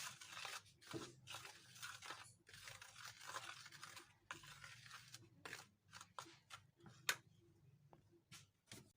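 Food-preparation handling noises: crunching and rustling for the first few seconds, then scattered clicks and a sharp knock about seven seconds in.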